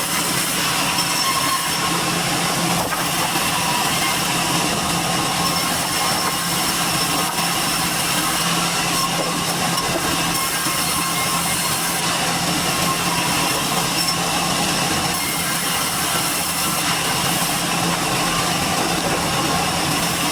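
Sawmill machinery running steadily, a loud, even mechanical noise with a constant hum and no breaks.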